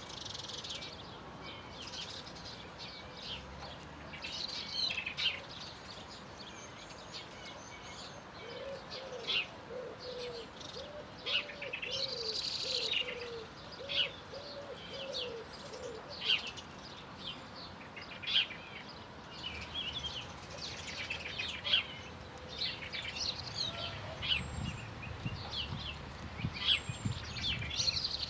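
Several songbirds singing and chirping, with many quick high notes and trills. Through the middle comes a run of lower, evenly repeated notes from another bird, and there is a low rumble near the end.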